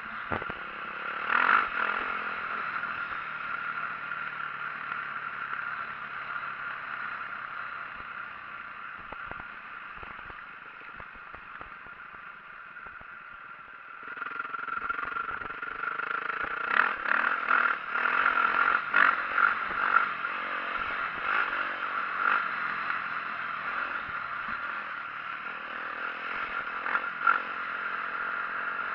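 2004 Yamaha YZ450F dirt bike's four-stroke single running as it is ridden, with the clatter and rattle of the bike over rough ground. It gets much louder about halfway through, with a run of sharp bursts as the throttle is worked.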